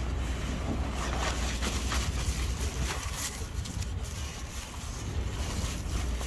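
Wind buffeting the microphone, a steady low rumble, with a few faint short rustles or clicks.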